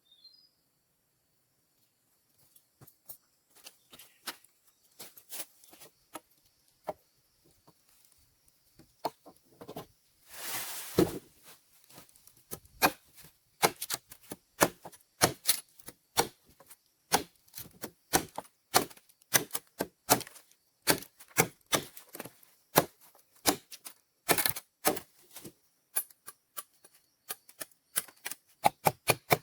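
A hand tool striking wood in quick, sharp, irregular blows, sparse at first and then coming about two to three a second. There is a short rustle about ten seconds in.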